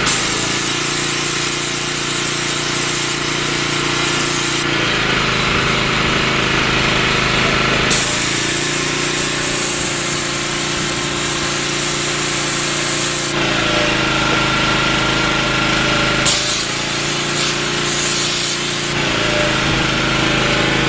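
Pressure washer with a sand injection nozzle running steadily, its sand-and-water jet hissing hard against concrete in three long bursts of several seconds each, with the engine drone continuing between them.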